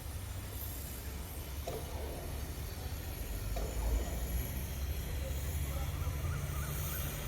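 Steady low engine rumble, with a steady hum joining about four seconds in.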